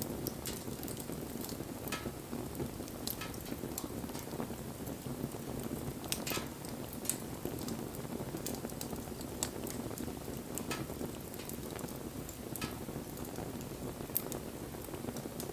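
Wood fire burning: a steady low rush of flames with sharp crackles and pops at irregular moments, roughly one every second or two.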